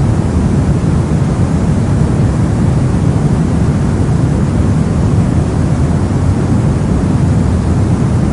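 Steady soft noise for sleep and study, an even hiss weighted heavily toward the low end so it sounds deep and rumbly rather than bright, with no changes or events.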